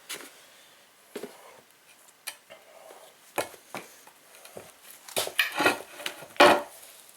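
Scattered metal clinks and knocks as the parts of a hydraulic jack are handled and fitted together during reassembly, with the loudest knock near the end.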